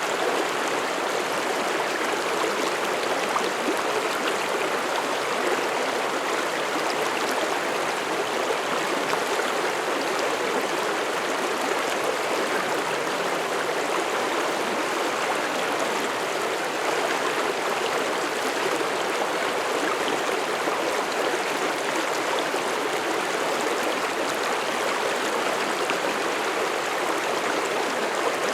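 Mountain stream flowing over rocks: a steady, even rushing and babbling of water.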